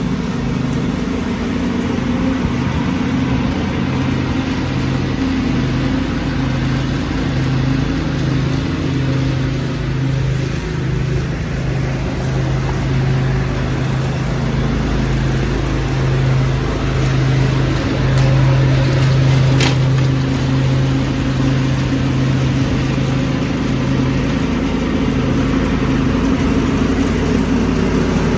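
Lawn tractor engine running steadily at constant speed while vacuuming leaves, with a brief sharp tick about two-thirds of the way in.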